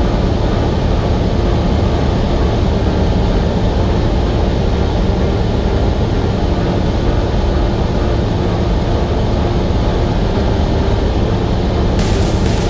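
Semi-truck cab noise while driving at speed: a steady low rumble of engine and tyres on the road. Near the end a brighter hiss comes in.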